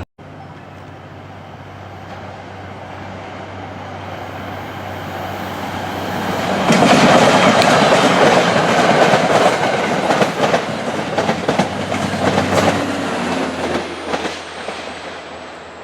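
Passenger train passing at speed, its wheels clicking rhythmically over the rail joints. It builds from a faint approach to loudest mid-way, then fades near the end.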